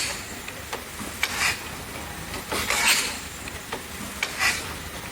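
1890 Murray Iron Works Corliss steam engine running slowly: a hiss of steam about every second and a half, with sharp clicks in between.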